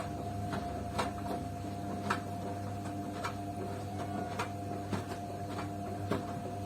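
Beko washing machine running its wash cycle: the drum motor hums with a steady whine, and light clicks come about once a second as the drum turns.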